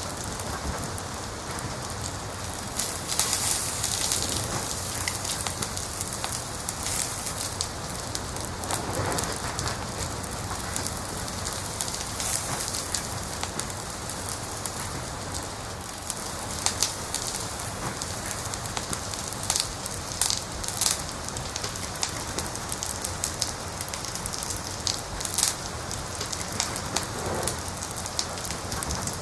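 Wood fire crackling: a steady hiss with many sharp, irregular pops and snaps.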